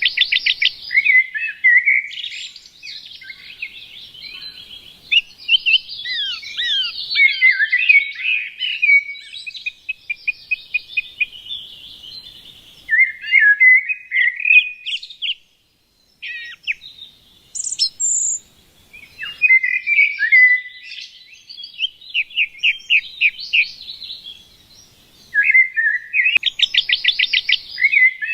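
Small songbirds chirping and singing, with rapid trills and short falling notes. A brief lull about halfway through, then a fast, loud trill near the end.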